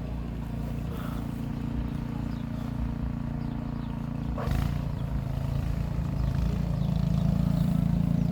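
An engine running steadily, getting louder over the last few seconds, with a single sharp knock about four and a half seconds in.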